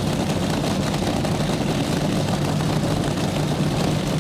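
Nitromethane-fuelled nostalgia top fuel dragster engines idling steadily.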